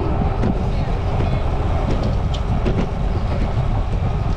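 Wind buffeting the microphone of a camera on a moving bicycle, a steady low rumble, with road noise and scattered rattling clicks.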